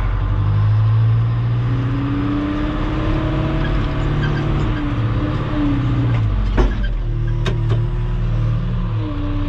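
Engine of a piece of heavy equipment running steadily under load while spreading gravel, its pitch drifting a little. Two sharp knocks come late on.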